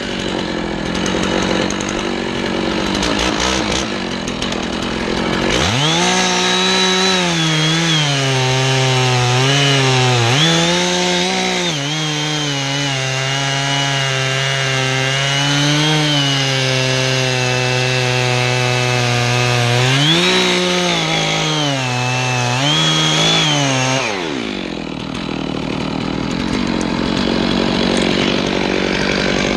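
Two-stroke chainsaw running at a low speed, then opened up to full throttle about five seconds in. It cuts into pine for some eighteen seconds, its pitch sagging under load and rising again when the chain frees up, then drops back to a low run near the end.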